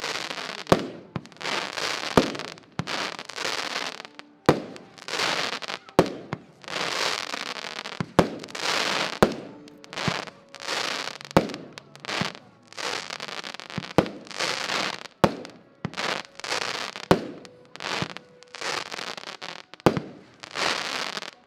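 Xplode Pixel consumer firework battery firing its shots one after another. Each shot is a sharp bang followed by about a second of crackle, repeating roughly every one to two seconds.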